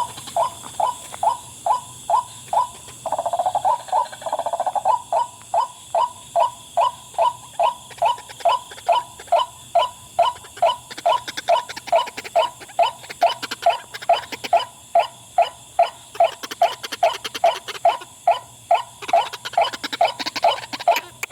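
White-breasted waterhen (the 'wak wak' bird) calling: a steady string of short, harsh 'wak' notes at about two a second, broken by a quicker chattering run about three seconds in.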